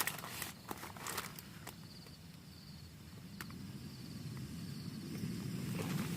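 Camp cooking gear handled with a few sharp clicks and knocks, followed by a low rushing noise that builds up steadily over the last few seconds. Insects chirp faintly in the background.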